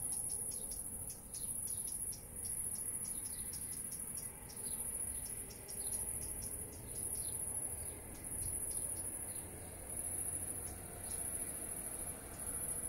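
Crickets chirping: a shrill, high-pitched trill that repeats in bursts of about a second, roughly once a second.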